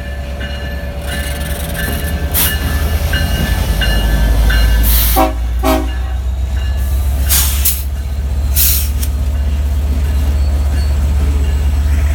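Train passing through a road crossing: a loud, steady deep rumble that grows louder over the first few seconds. The crossing bell dings evenly over it at first, with a few brief hissing bursts and two short tones about five seconds in.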